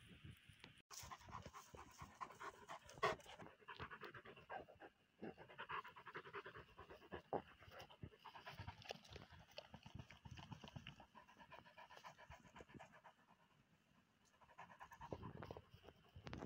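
Pyrenean Mountain Dog panting rapidly and steadily. The panting fades for a couple of seconds late on, then starts again near the end.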